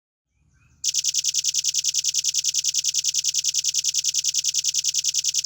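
Velvet-fronted nuthatch singing a long, rapid trill of high, evenly spaced notes, about ten a second, beginning about a second in.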